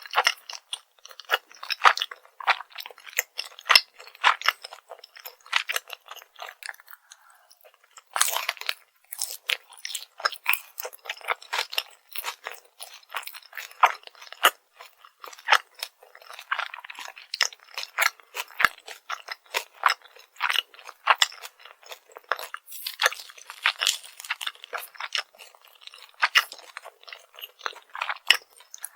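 Close-miked crunching and chewing of crispy fried food: a dense, irregular crackle of bites and chews, with a louder run of crunches about 8 seconds in.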